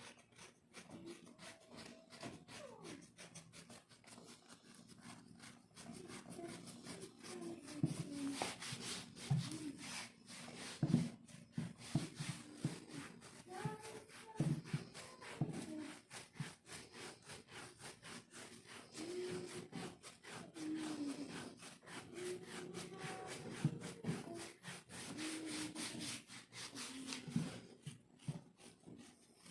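Repeated scratching and rubbing strokes on dry, flaky skin of a leg, loosening large flakes.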